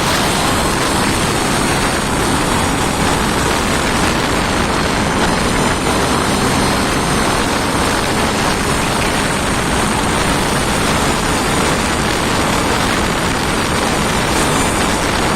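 An engine running steadily at a constant speed, loud and unbroken throughout.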